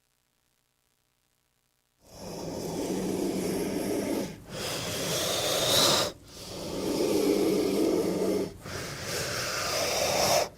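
King cobra hissing: after about two seconds of silence, four long, low, growl-like hisses follow one another, each about two seconds long.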